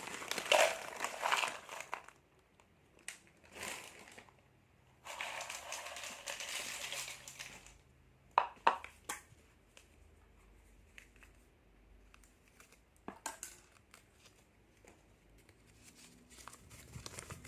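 Plastic snack packets crinkling as they are handled and torn open, in two long rustling stretches with a few sharp crackles in between.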